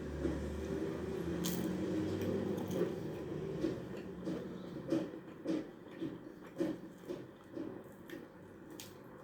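Eating sounds of a saucy, spicy dish with bread: wet squelching bites, chewing and lip smacks in short irregular clicks, over a low steady hum that fades about halfway through.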